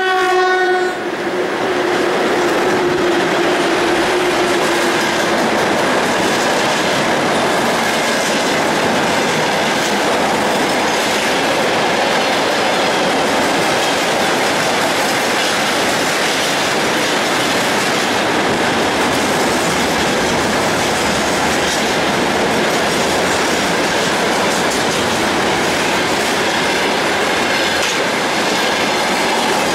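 Freight train drawn by a VL10K DC electric locomotive rolling past: wagon wheels running and clattering over the rails in a steady, loud din. A short horn blast sounds in the first second, and a lingering tone fades away over the next few seconds.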